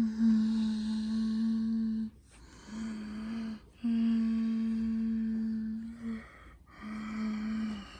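A voice humming one steady low note in four stretches of one to two seconds each, with short breaks for breath between them.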